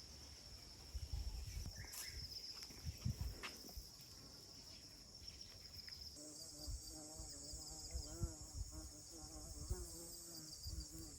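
Insects chirring in a steady high-pitched drone, the pitch stepping higher about six seconds in, with a few low thumps of handling.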